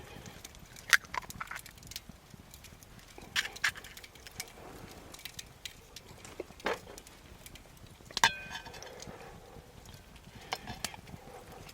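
Scattered sharp clicks and knocks at irregular intervals; about eight seconds in, one is a metallic clink that rings briefly.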